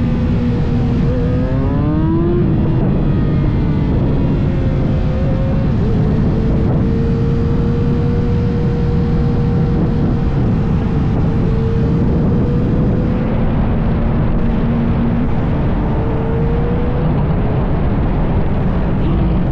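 Motorcycle engine under way, its pitch rising about two seconds in, then holding steady before climbing again near the end, under heavy wind rumble on the microphone.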